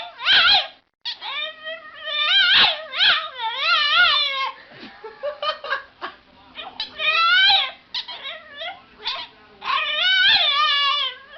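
A dog howling and whining in a run of long, wavering calls that slide up and down in pitch, with short breaks between them.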